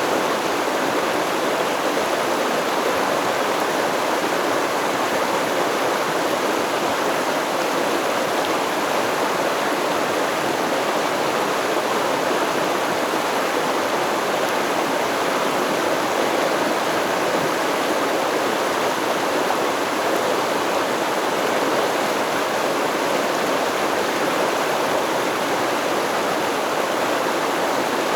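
Stream water flowing, a steady, even rush with no breaks or changes.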